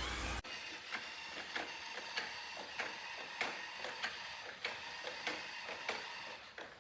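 A steady whooshing motor noise cuts off abruptly just after the start, followed by a small mechanism clicking and ticking about twice a second until near the end.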